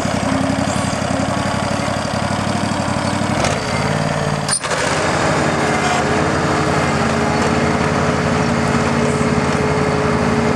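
Briggs & Stratton Vanguard 14 hp two-cylinder engine of an Ingersoll 3014 garden tractor running steadily. A sharp click and brief dip come a little under halfway through, after which a steady whine sits over the engine.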